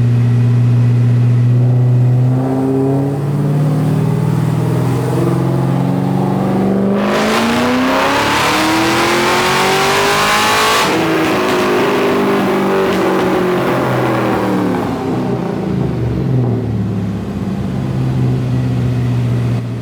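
2011 Cadillac CTS-V's supercharged 6.2-litre V8 making a full-throttle pull on a chassis dyno: the revs climb smoothly for about eight seconds, loudest near the top, then the throttle closes at about eleven seconds and the revs fall back to idle.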